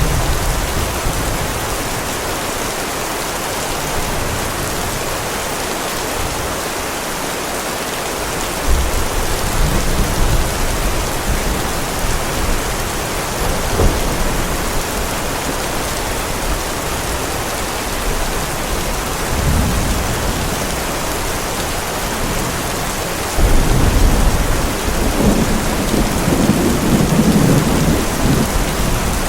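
Heavy, steady rain with thunder rolling through it: a low rumble about nine seconds in, a sharp clap near fourteen seconds, another short rumble, then a long, louder rumble of thunder over the last six seconds.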